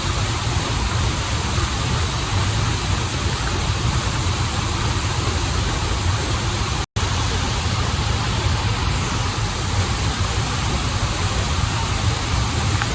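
Waterfall and river water pouring steadily, a continuous rush with a deep low rumble under it. It cuts out for an instant about seven seconds in.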